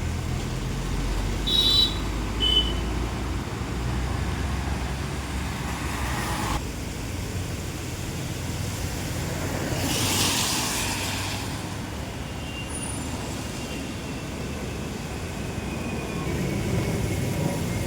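Steady rain over city road traffic, with vehicles running and passing; one swells past about ten seconds in. Two short high toots sound about two seconds in.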